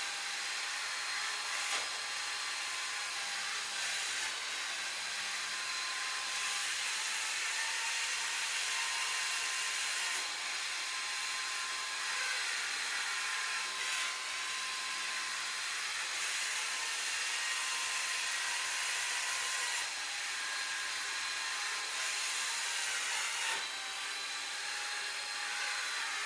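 Sharp Cocorobo robot vacuum cleaner running, a steady whir of its suction fan and brushes with a faint high whine, changing briefly every few seconds.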